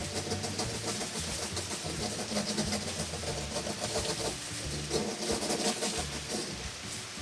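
Heavy rain falling, a dense crackling patter, with low changing tones underneath.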